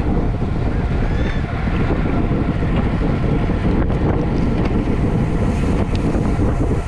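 Loud, steady wind rushing over the microphone of a camera moving at road-bicycle racing speed.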